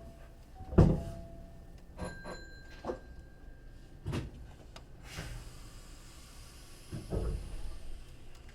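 Inside a Hankyu 3300 series electric train pulling out slowly: irregular heavy thuds, the loudest about a second in, as the wheels run over points and rail joints. A hiss starts about five seconds in.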